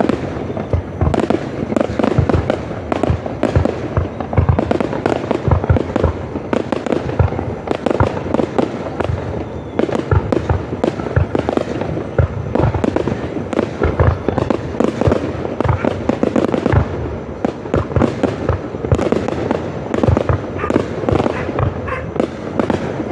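Fireworks display: a dense, continuous barrage of bangs and crackles, many bursts each second.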